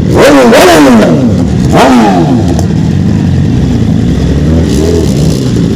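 Superbike engine idling with sharp throttle blips: a quick run of revs rising and falling in the first second, another rev about two seconds in, and a smaller one near the end.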